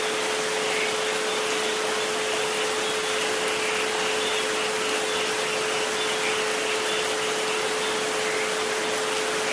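Steady rain-like hiss with a pure, unchanging tone held underneath at about 432 Hz and a fainter one near 528 Hz.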